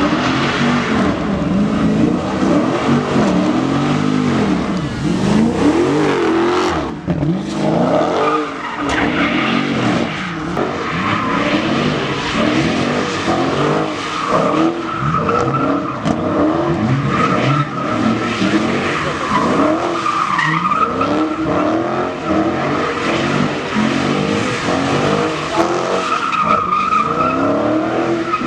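Engines revving up and down again and again over continuous tyre squeal: vehicles doing burnouts and drifting.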